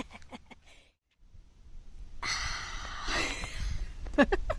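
A person's breathy exhales and a few short, stifled laughs close to the microphone, broken by a brief dropout to silence about a second in.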